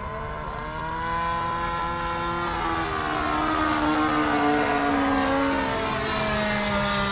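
Model airplane's OS .46 AX two-stroke glow engine at high throttle during a fly-by: the whine grows louder toward the middle and drops in pitch as the plane passes about four to five seconds in, then climbs in pitch again near the end.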